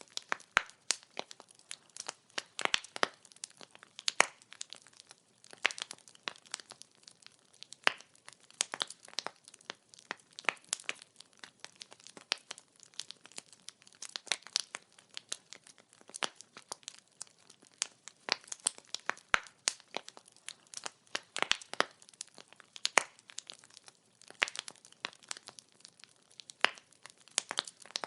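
Wood fire crackling: irregular sharp pops and snaps of burning firewood, several a second.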